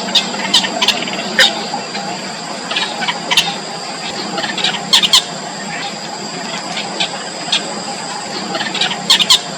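Yellow bittern nestlings giving short, sharp squeaky begging calls at irregular intervals, some in quick pairs or clusters, over a steady high-pitched tone in the background.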